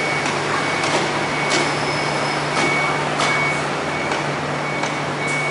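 MTR Tsuen Wan line electric train running slowly in restricted manual mode, with a steady hum and running noise and scattered knocks. A high beep sounds on and off many times.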